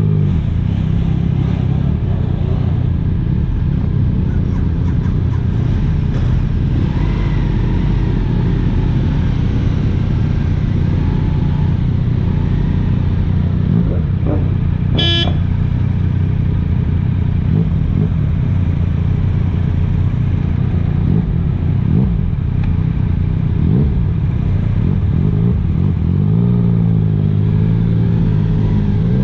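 Motorcycle engine running steadily at road speed. A brief pitched beep comes about halfway through, and near the end the engine note rises as the bike speeds up.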